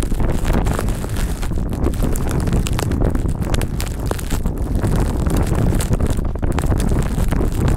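Strong blizzard wind buffeting the microphone: a loud, steady rumble with constant crackling gusts.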